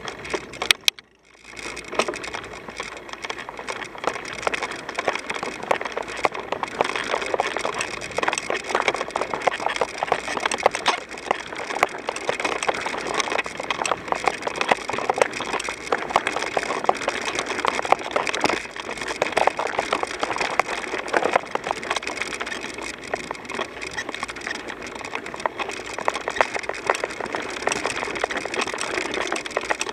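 Bicycle tyres crunching and crackling over a gravel or dirt trail, with a steady stream of small clicks and rattles; the sound cuts out briefly about a second in.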